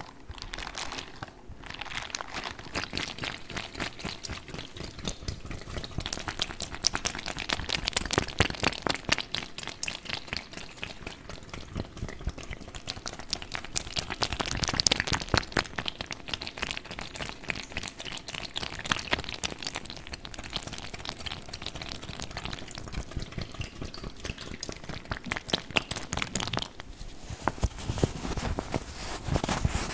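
Plastic bag of water squeezed and handled: water sloshing inside, with a dense stream of small squelches and taps.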